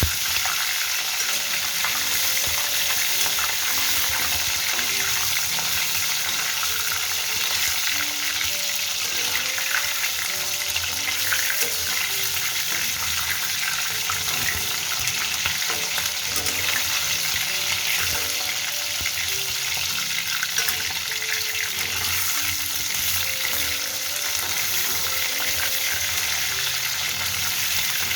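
Chicken leg pieces shallow-frying in hot refined oil: a steady sizzle with dense crackling.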